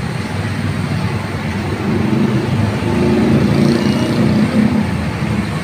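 A bus engine running close by as the bus moves off. It grows louder about two seconds in and is loudest around three to four seconds, over a steady road-noise hiss.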